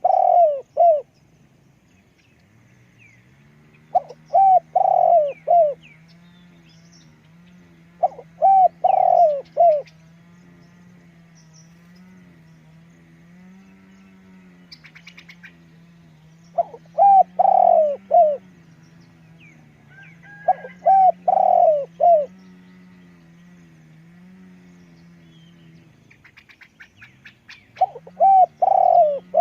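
Spotted dove cooing: short phrases of several quick coo notes, repeated about every four to eight seconds. A low steady hum runs underneath, with faint chirps of small birds.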